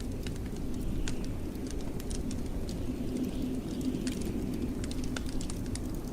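Wood fire crackling in a fireplace with sharp, irregular pops, over a steady low rumble of blizzard wind.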